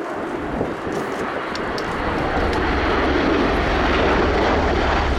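Bell Boeing CV-22B Osprey tilt-rotor flying past, its twin turboshaft engines and proprotors running, growing louder with a deeper rumble coming in about halfway through.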